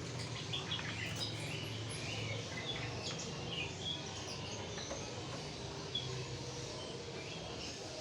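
Small caged birds chirping in short, scattered calls over a low hum.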